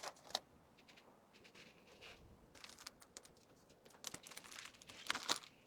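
Faint rustling of plastic wrapping and light clicks as small packaged items are handled and packed, busiest near the end.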